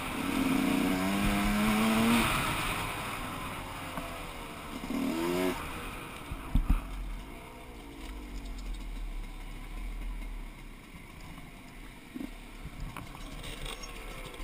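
Gas Gas EC 125 two-stroke enduro bike's engine under throttle, its pitch rising and falling, with a short rev about five seconds in. From about six seconds in it runs quieter and lower as the bike slows, with a few knocks.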